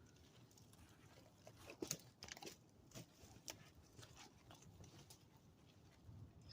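Near silence, broken by a few faint, short crunches spread through the middle of the stretch. No chainsaw is running.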